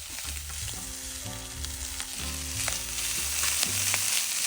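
Meat frying in a pan, a steady sizzle with scattered pops that grows louder toward the end.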